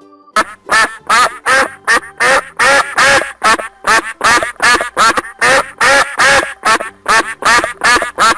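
Duck quacking in a long, fast series of short calls, about three a second, beginning about half a second in.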